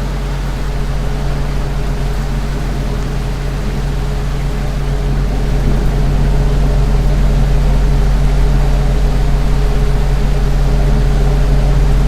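Ceiling fan running with a steady hum over a low rumble, getting a little louder about halfway through.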